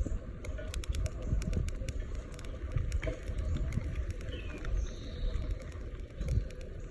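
Bicycle being ridden: wind buffeting the microphone as an uneven low rumble, with many light clicks and rattles from the bike.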